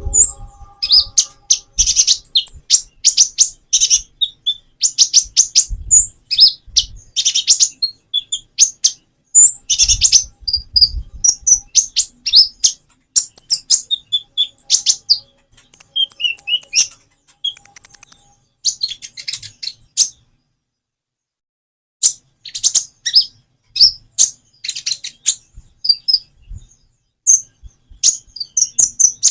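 A small songbird that the title calls a konin, chirping in dense runs of quick, high notes with short pauses between runs and one silent gap of about two seconds past the middle. A few faint low thuds sound underneath.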